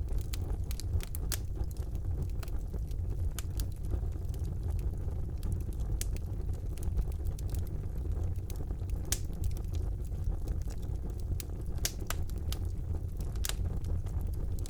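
Wood fire burning in a fireplace, crackling: a steady low rumble of the flames with irregular sharp pops and snaps scattered throughout.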